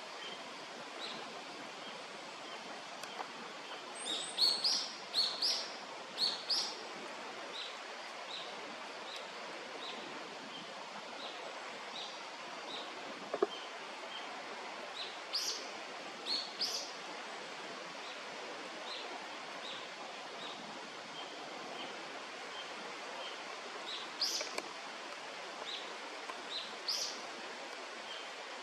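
Bird calls outdoors: a short high note repeated about once a second, with three brief clusters of louder, sharper high chirps, over a steady background hiss. One sharp click near the middle.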